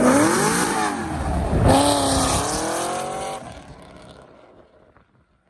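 Car engine revving hard as it pulls away, its pitch climbing and falling in two sweeps. It stops suddenly after about three and a half seconds and the sound fades away.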